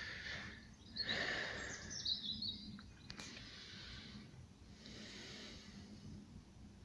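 Faint outdoor ambience: a low steady hiss with a few short high bird chirps, and a single sharp click about three seconds in.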